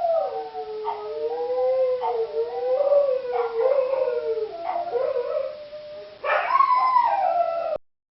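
Dogs howling long, wavering howls, with more than one voice overlapping at times. A louder howl starts about six seconds in, and the sound cuts off abruptly near the end.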